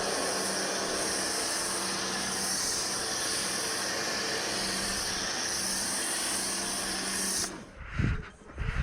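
Pressure washer spraying: a steady hiss of the water jet over the hum of the pump, cutting off suddenly about seven and a half seconds in, then a few low thumps.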